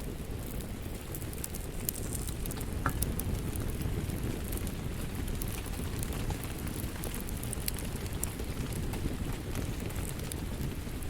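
Wood fire crackling with sharp, scattered pops over a steady patter of rain.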